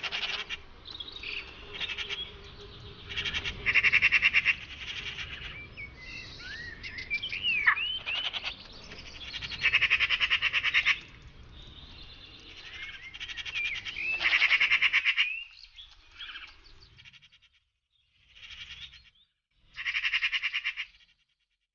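Magpies chattering: harsh, rapid rattling calls in repeated bursts of about a second each, with a few short, sliding whistled notes between them. The bursts thin out near the end, with two last rattles after a short pause.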